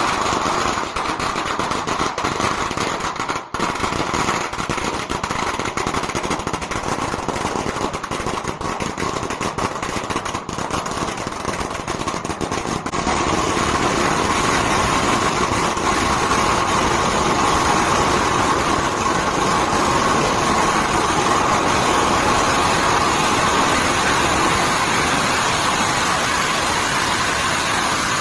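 Long string of firecrackers going off nonstop, the rapid bangs merging into a continuous dense crackle that grows a little louder about halfway through.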